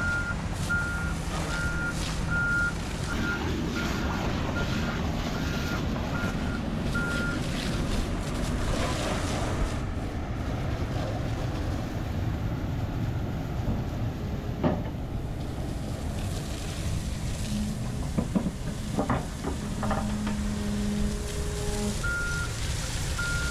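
A heavy vehicle's reversing alarm beeping about twice a second over steady diesel engine noise. The beeping stops about a third of the way in and starts again near the end.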